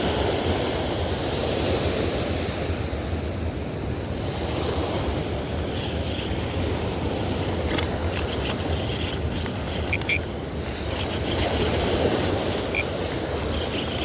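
Steady rushing noise of a fast river current, mixed with wind on the microphone, with a couple of faint clicks around the middle.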